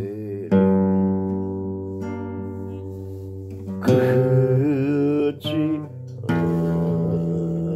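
Acoustic guitar chords strummed and left to ring, with a voice singing or humming a slow melody in long, wavering held notes from about halfway in.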